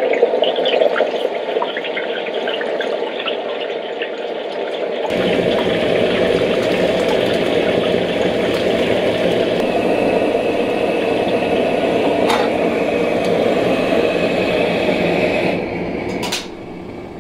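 Hot oil sizzling and crackling in a wok as it is ladled over a soy-sauce-coated pork hock to fry it, giving the skin its colour. The sizzle grows louder about five seconds in and dies down near the end.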